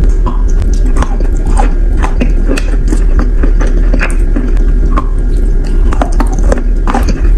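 Close-miked chewing of a mouthful of wet, creamy chalk clay: irregular soft crunches and moist mouth clicks, many per second, over a steady low hum.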